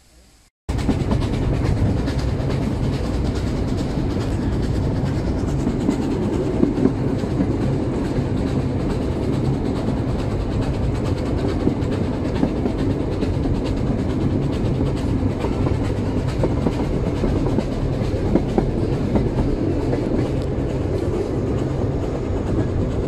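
Narrow-gauge steam train under way, its carriages clattering over the track, heard from an open passenger car. The steady noise starts suddenly under a second in.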